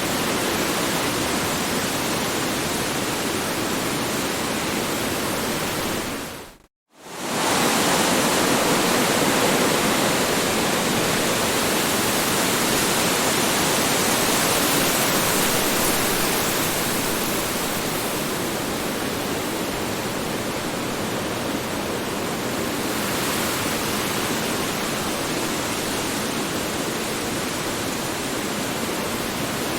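Strong wind blowing steadily as a dense, even rush of noise. About six and a half seconds in it fades out to a split second of silence and comes straight back, as at the loop point of a sound-effect recording.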